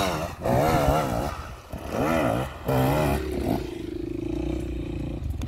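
Enduro motorcycle engine revving hard and easing off in repeated surges as it climbs a steep slope, then settling into a steadier, quieter drone about three and a half seconds in.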